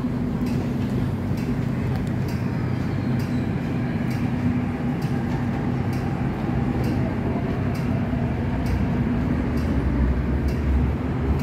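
MTR Kwun Tong line electric train pulling out of the platform and gathering speed: a steady rumble and hum from the running gear, with repeated clicks of the wheels over the track.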